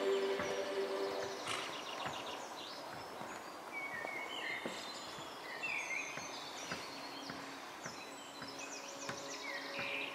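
Wild birds chirping and singing, with many short rising and falling calls over steady outdoor background noise. Background music fades out in the first second or two.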